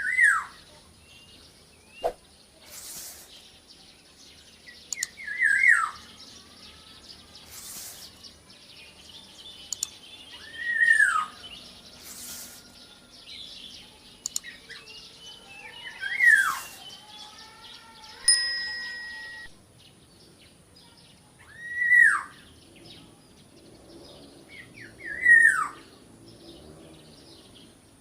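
Black-naped oriole (kepodang) calling: six short, loud notes that arch up and then slide down in pitch, spaced about five seconds apart.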